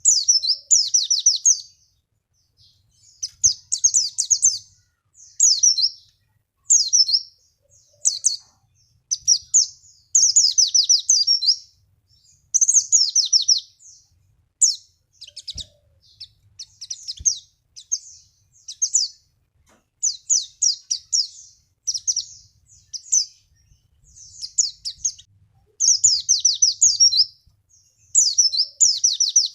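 White-eye (pleci) singing in quick, high chirping phrases. Each phrase is a rapid run of twittering notes, repeated over and over with short pauses between. This is the song used as a lure to draw a white-eye into answering.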